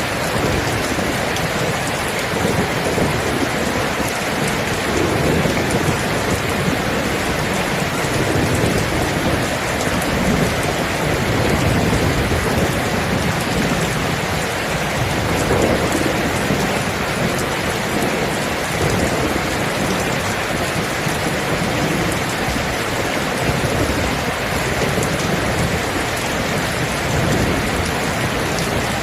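Steady, dense rainfall with low rumbles of thunder swelling and fading beneath it.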